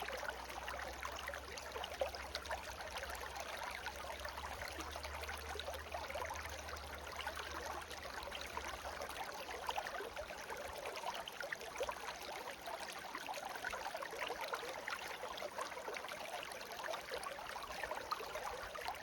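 A small stream (seseragi) babbling steadily, a continuous rush of running water. A faint low hum underneath drops away about halfway through.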